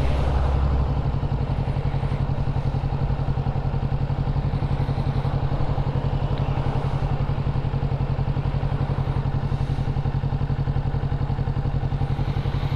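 Motorcycle engine running steadily at an even pitch, with a regular pulsing exhaust beat and no revving.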